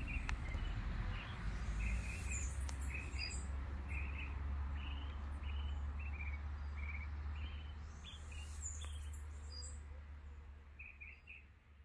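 Birds calling: a short chirping note repeated every second or so, with a couple of higher calls, over a steady low rumble. The sound fades out near the end.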